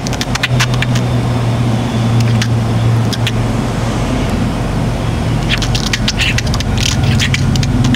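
Budgerigar making rapid clicks and short high chirps, its beatboxing, which thin out in the middle and pick up again densely near the end, over a steady low hum.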